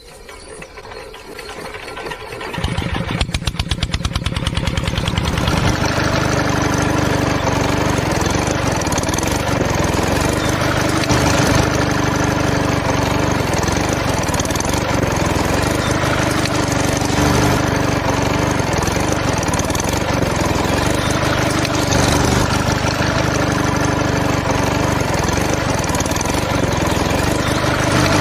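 Small engine of a home-built miniature tractor starting up: rapid strokes that quicken over a few seconds, then run on steadily.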